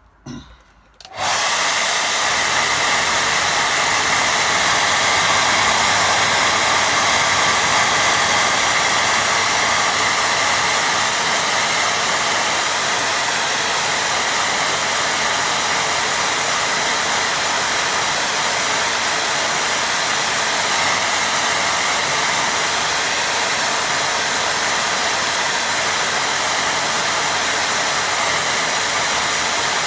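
Hair dryer switched on about a second in and running steadily, drying wet watercolour paint.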